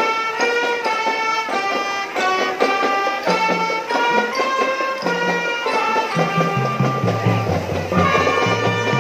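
A marching drum band playing a tune: a melody of held notes changing about every half second, over a moving bass line.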